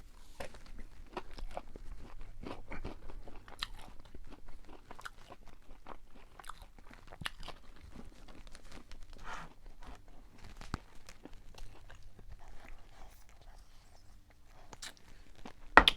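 Close-miked chewing of crisp fried fast food, with irregular crunches throughout and a single sharp knock near the end.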